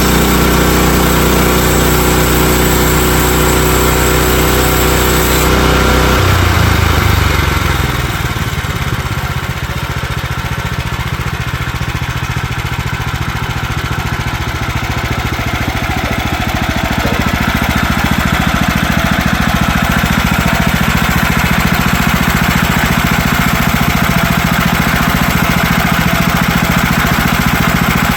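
Sawmill's small gas engine running steadily. Its sound changes and drops in level about seven seconds in, then slowly builds back up and holds.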